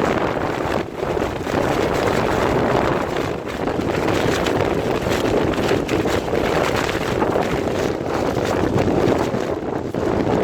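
Clear plastic tent sheeting flapping and crackling without pause in a windstorm, with wind buffeting the microphone.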